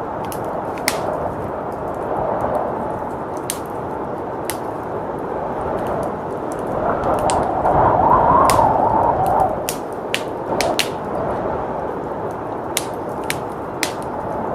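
Wood fire crackling in a fireplace, with sharp pops scattered irregularly throughout, over a steady rush of blizzard wind that swells for a couple of seconds about seven seconds in and then eases.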